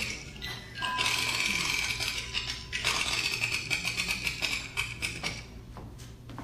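Small bird chattering in fast, high-pitched, rattling runs with short pauses, fading out about five seconds in.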